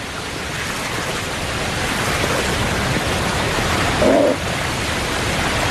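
A swollen river rushing over falls: a steady roar of white water that slowly grows louder. A brief, louder pitched call cuts in about four seconds in.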